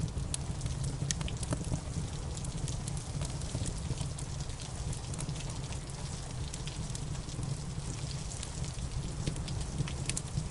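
Wood fire crackling, with irregular sharp pops over a steady low rumble, mixed with steady rain.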